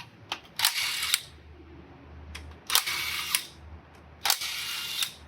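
A power tool run in three short bursts, each under a second, loosening the bolts of a pulley on a GM 3.6 V6 engine. Sharp clicks come between the bursts.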